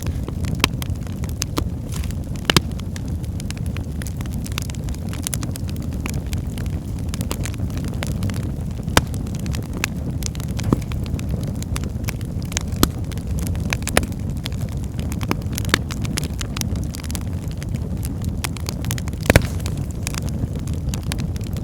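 Wood fire burning in a fireplace: a steady low roar of the flames with constant crackling and scattered sharp pops from the burning logs, the loudest about 19 seconds in.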